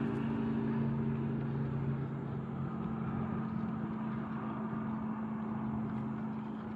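A motor engine running with a steady low hum that slowly fades.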